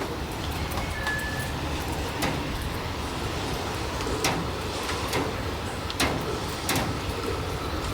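Steady rumble of an electric train running, with a few sharp clicks and a faint steady whine coming in near the end.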